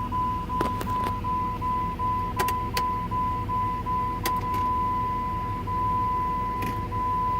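2002 Jeep Grand Cherokee's dash warning chime: a steady high-pitched tone broken by brief gaps a few times a second, over a low steady rumble, with a few light clicks.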